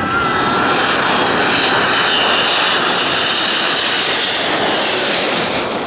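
Airliner passing low overhead: an engine roar with high whining tones that slowly slide down in pitch as it goes by. The hiss is brightest about four to five seconds in, then begins to ease.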